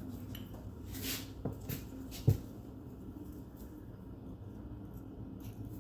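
Hand tools working at a stuck shaft seal on a transaxle: a few short scrapes and clicks, then one sharp knock a little over two seconds in, over a steady low hum.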